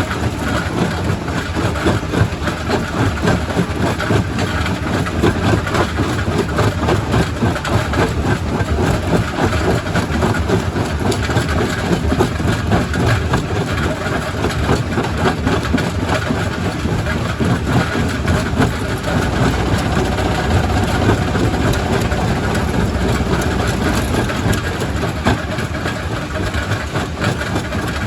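Quarry primary rock crusher running and crushing stone: a steady heavy machine drone with a continual clatter of small knocks as the rock breaks.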